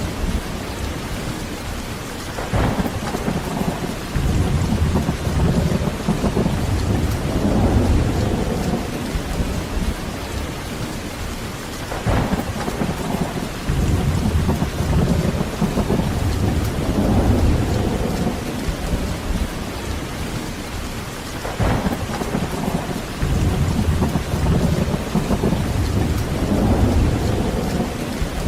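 Heavy rain falling steadily, with rolling thunder rumbling low three times, about every ten seconds.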